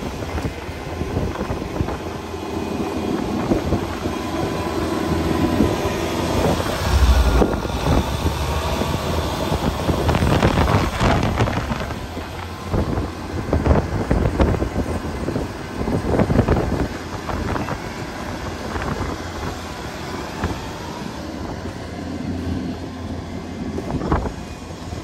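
An engine running, with gusty wind buffeting the microphone that makes the loudness swell and dip.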